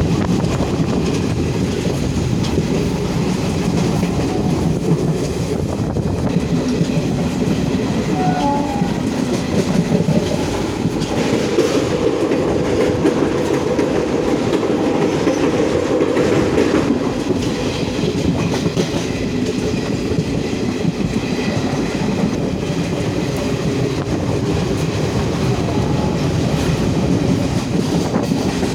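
A train running along the track: a steady, loud rumble with the rattle of wheels on rail.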